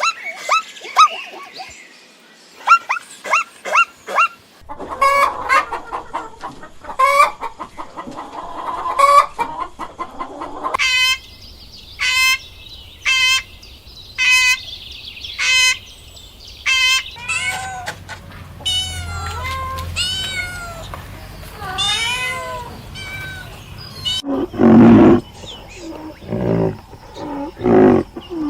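A run of different animal calls one after another, chicken and rooster calls among them: short repeated calls, then chirping calls, ending with louder, lower calls.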